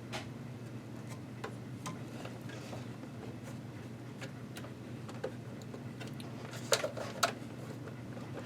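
Scattered light clicks and taps of small metal and plastic parts being handled while a sewing machine is taken apart, with a sharper cluster of three clicks about seven seconds in, over a steady low hum.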